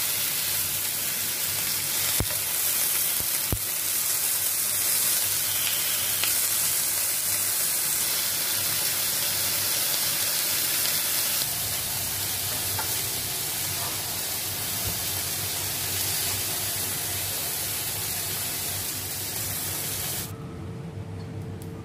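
Chicken breast strips sizzling as they pan-fry in oil in a nonstick frying pan, with two sharp knocks of a plastic spatula against the pan a few seconds in. The sizzle cuts off abruptly near the end.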